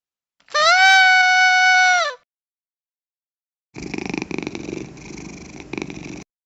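A cat's single long meow held at a steady pitch and dropping at the end, then, after a pause, about two and a half seconds of rough purring.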